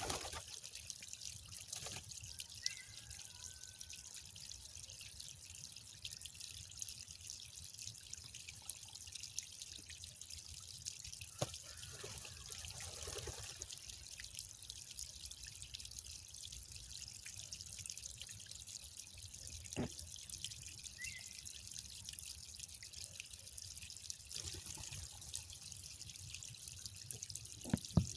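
Water trickling and dripping steadily, with scattered sharp drips or clicks and a couple of brief high chirps.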